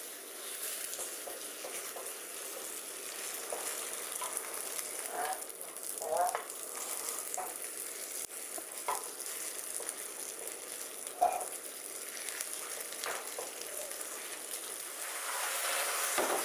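Fresh tofu skin sizzling steadily as it pan-fries in a stainless steel wok, turned with wooden spatulas.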